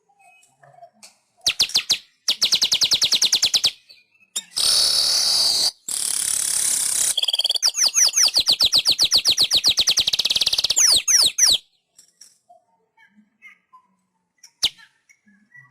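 Weaver bird (manyar) singing. It gives fast high chattering trills, a harsh wheezy buzz and a long run of rapid down-slurred notes, in bouts separated by short pauses, and goes quiet in the last few seconds.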